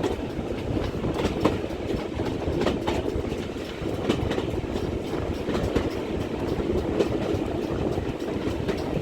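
Heritage railway carriage running at a steady pace: a steady rumble of wheels on track, with clicks as the wheels pass over rail joints every second or so.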